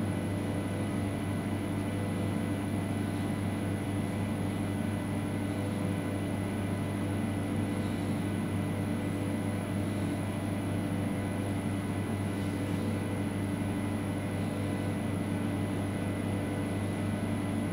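Steady low hum inside a stationary Roslagsbanan X10p electric train carriage, from the train's onboard equipment running while it stands at a station.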